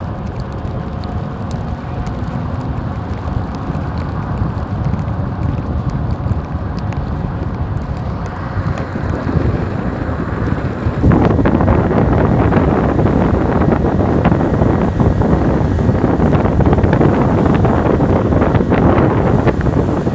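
Strong blizzard wind buffeting the microphone, a loud, rough, low rumble that gets louder and harsher about halfway through.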